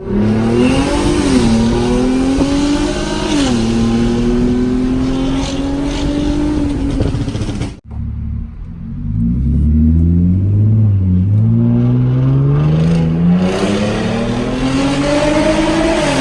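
Straight-piped Hyundai Genesis Coupe 3.8 V6 exhaust under hard acceleration. A rising pull is broken by two upshifts where the pitch drops. After a sudden break about eight seconds in, a second long pull climbs steadily in pitch from low revs.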